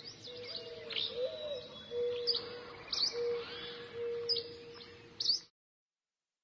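Birds chirping: short sharp chirps about once a second over a lower, steady whistled note. It cuts off suddenly about five and a half seconds in.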